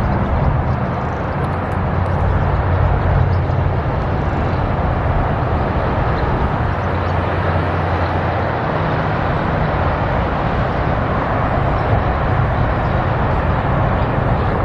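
Steady road traffic noise, a continuous low rumble and hiss of vehicles.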